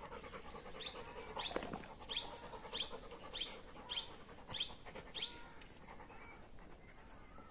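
A bird calling a run of about eight short, high notes, each sliding downward, evenly spaced a little under two a second, stopping about two-thirds of the way through.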